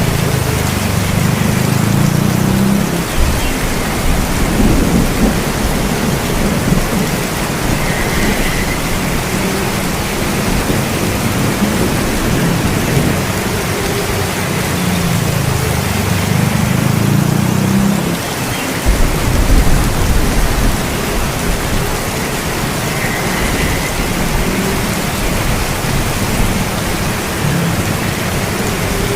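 Steady heavy rainfall with low rolls of thunder rumbling twice, the second ending in a sharper low crack.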